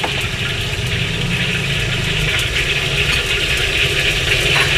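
Steady hiss of wontons deep-frying in oil, over the low rumble of motorbike engines on the street, which swells for about a second near the start.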